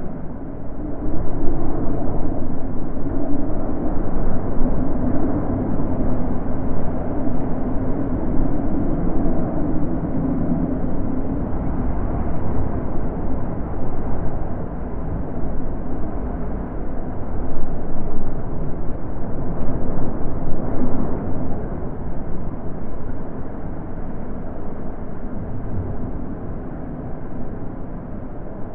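Wind blowing in gusts, a low rushing noise with no tone in it, swelling strongly about a second and a half in and again around two-thirds of the way through, then easing off toward the end.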